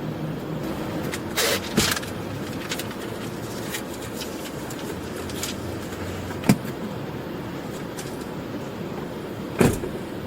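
Steady rumble of road vehicles, with a few sharp knocks: two close together about a second and a half in, one past the middle and one near the end.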